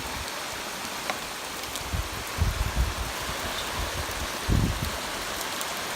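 Torrential rain pouring down in a steady, dense hiss, with scattered low thumps and the odd sharp drip or tap in among it.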